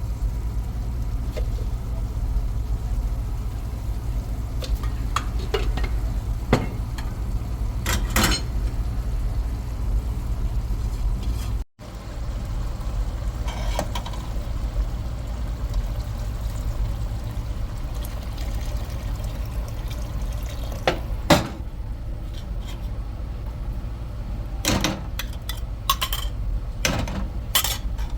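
Cooking sounds: utensils knocking and clinking against pots and dishes now and then, over a steady low rumble.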